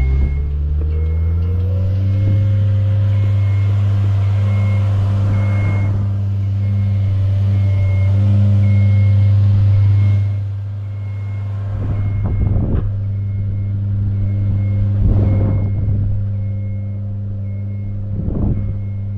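Aerial work lift's engine revving up and running steadily while the platform rises, with its motion alarm beeping about once a second. The engine eases off about ten seconds in, and three short rushes of noise follow.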